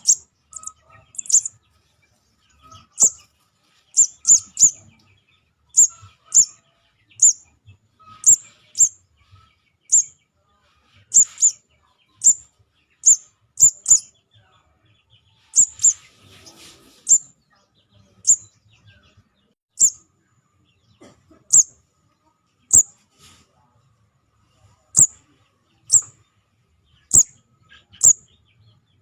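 Lure call of a juvenile sogon (sunbird): short, sharp, high chirps repeated irregularly, about one or two a second, with a brief rustling hiss about halfway through.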